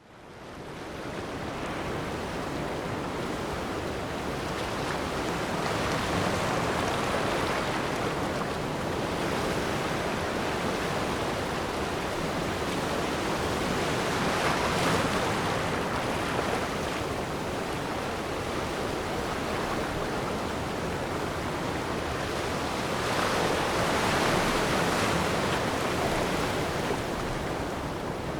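Gentle ocean waves washing against the shore: a steady surf hiss that fades in at the start and swells slowly about every eight seconds.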